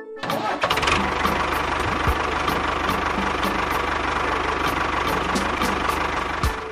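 A mini tractor model running: a steady engine-like sound with a fast fine ticking. It starts abruptly just after the beginning and drops out briefly near the end.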